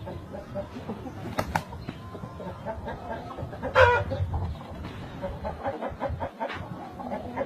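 Chickens clucking in short, repeated calls, with a louder call about four seconds in and two sharp clicks shortly after the start.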